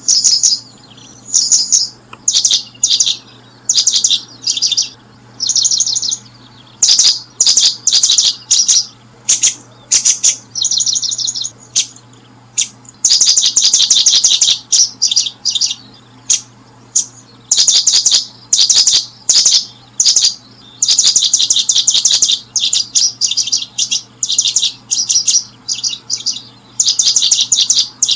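Small birds chirping in quick high-pitched bursts and short trills, repeated with brief gaps, over a faint steady low hum.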